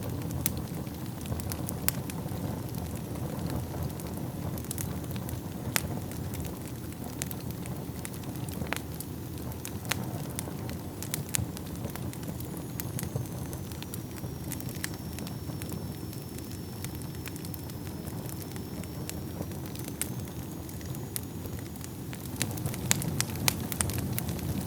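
Wood fire burning in a fireplace: a steady low rumble of flames with irregular sharp crackles and pops, several coming close together near the end.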